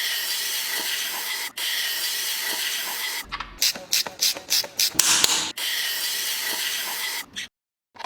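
Steady hiss, broken in the middle by a quick run of about six short mechanical bursts.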